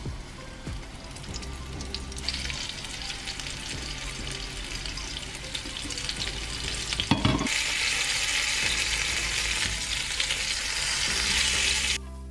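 Flour-coated chicken rolls sizzling in hot oil in a frying pan as they are laid in one by one. The sizzle builds after a couple of seconds and turns suddenly louder about seven and a half seconds in, just after a short knock.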